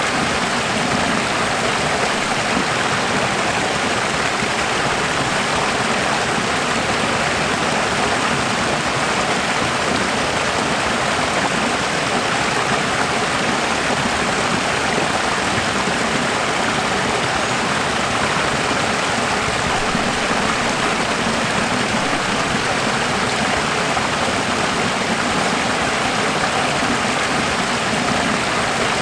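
Running water flowing steadily, an even, unchanging sound.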